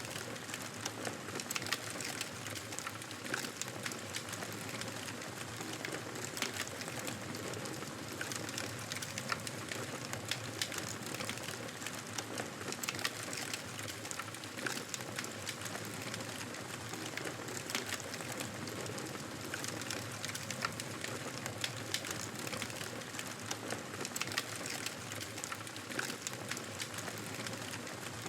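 Wood fire burning in a fireplace: a steady hiss of flames with frequent small crackles and pops.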